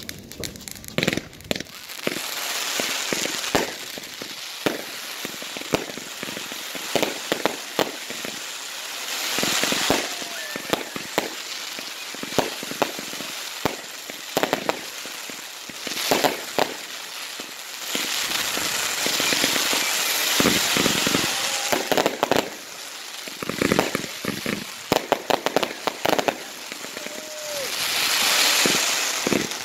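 Fireworks going off: many sharp bangs and rapid crackling, with longer stretches of hissing about a third of the way in, in the middle and near the end.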